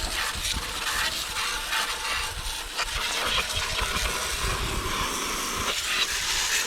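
Garden hose nozzle spraying water onto a tractor, a steady hissing spray with no real pressure behind it.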